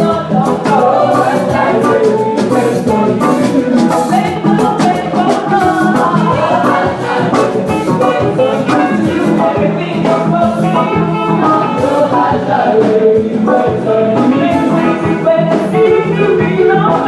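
Church choir singing an anthem with instrumental accompaniment and a steady percussive beat.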